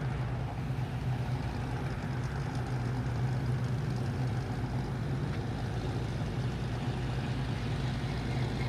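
A vehicle engine idling steadily: a constant low hum over an even rushing noise, with no revving.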